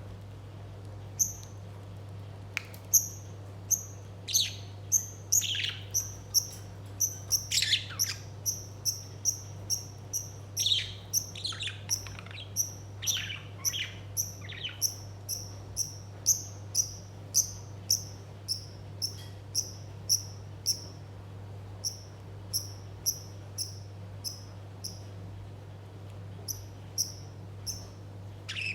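Bird-like tweeting: short, high-pitched chirps repeated about twice a second, with a run of louder falling squeaky whistles in the first half. A steady low hum runs underneath.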